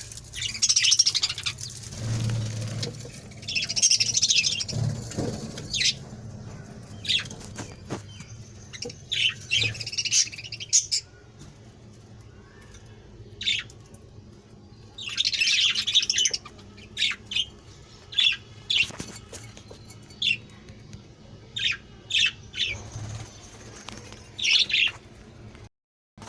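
A colony of budgerigars chirping and squawking in repeated bursts of high chatter, with short sharp clicks between the calls.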